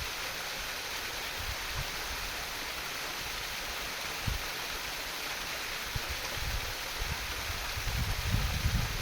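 Stream water babbling and flowing steadily. Low wind buffeting on the microphone comes and goes, growing stronger near the end.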